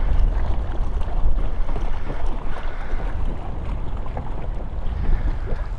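Strong gusty wind buffeting the microphone, a loud, uneven low rumble.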